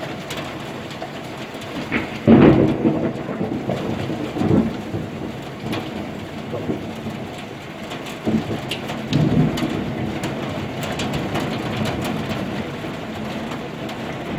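Steady rain with several rolls of thunder, the loudest about two seconds in and others around four, eight and nine seconds in.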